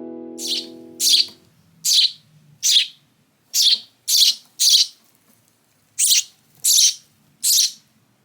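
A young sparrow chirping loudly and repeatedly, short high calls about one every two-thirds of a second. A strummed guitar chord rings out and fades during the first second or so.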